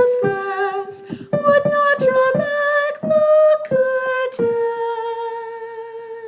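A female voice sings a solo with piano accompaniment. About four and a half seconds in, she ends the song on one long held note that fades away.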